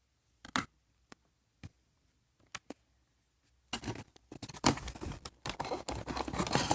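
A few light clicks and taps from handling a small toy package, then from about four seconds in, continuous crinkling and scratching as the packaging is opened.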